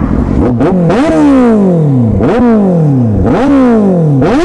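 Kawasaki Z800's inline-four engine revved in repeated throttle blips, about once a second: each time the note jumps up sharply and slides back down.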